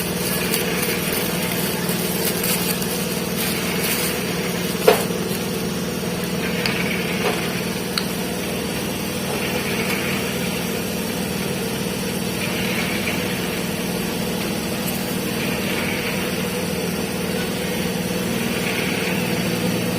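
Steady hum of an engine running in the background, with a sharp click about five seconds in and a fainter one a few seconds later.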